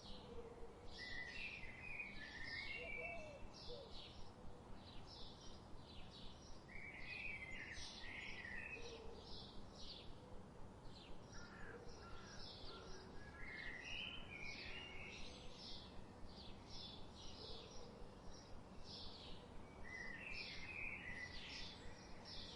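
Birds chirping and singing: a steady run of short high chirps, two or three a second, with a brief warbling song phrase every few seconds, over a faint background hiss.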